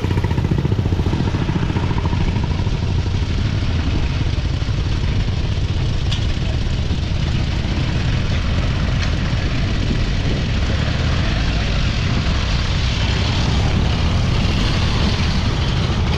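Motorcycle engine running steadily, with a rapid low pulsing drone under a steady rush of wind noise.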